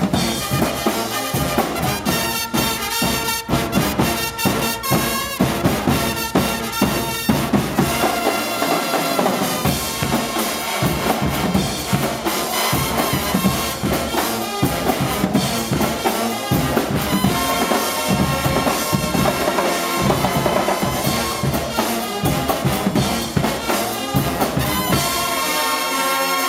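A Guggenmusik band of brass and drums playing loudly: trumpets and trombones over a steady beat of bass drum and drum kit.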